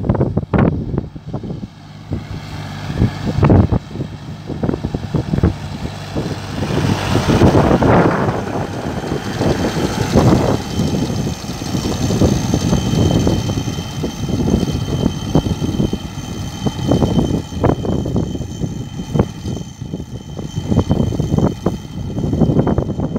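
A tractor running its mounted crop sprayer: a steady engine-and-fan drone with irregular thumps and rushing noise over it, and a faint high whine from about halfway through.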